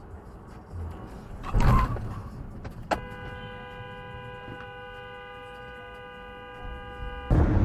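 A short thump, then a car horn held in one steady blast for about four seconds that cuts off abruptly.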